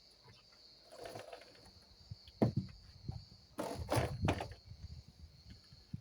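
Knocks and rubbing from hands cleaning the RC airplane's fuselage: a soft rubbing about a second in, a sharp knock midway, then a cluster of knocks and scraping. A steady high-pitched tone runs underneath.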